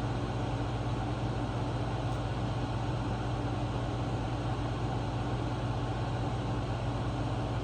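Steady low hum of a running air conditioner and electric fan.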